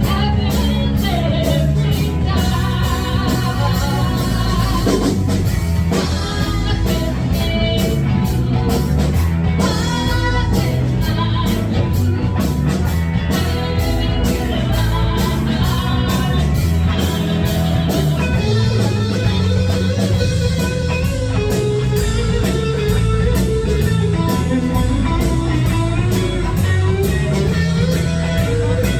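Live rock band playing: electric guitar and drum kit with a steady beat.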